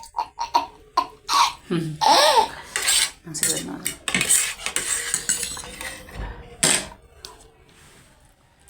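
Spoon and fork clinking and scraping against a bowl of instant noodles during eating: a quick, irregular run of sharp clinks that thins out and gets quieter in the last couple of seconds.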